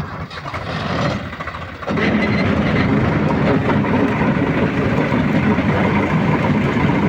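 Diesel engine running, becoming suddenly much louder about two seconds in and then holding steady at the higher level.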